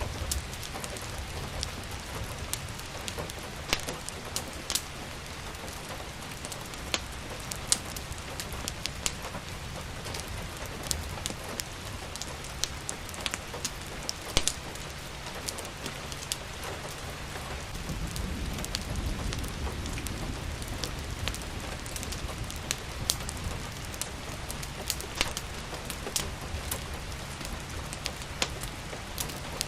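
Steady rain, with sharp crackles and pops from a wood fire scattered throughout. A low rumble rises for a few seconds past the middle.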